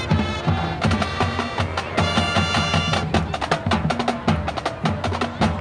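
Marching band playing: sustained brass-like tones over a dense pattern of sharp drum strikes.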